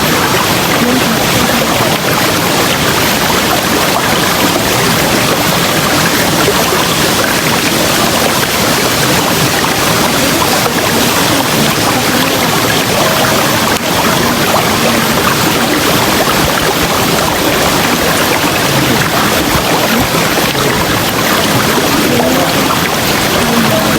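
River water rushing steadily, with faint short gurgles now and then.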